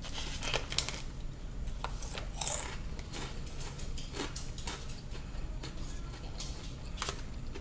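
Close-up chewing of crunchy cheese-flavoured Reaper pepper chips: scattered sharp crunches and clicks, with a slightly longer crackle about two and a half seconds in.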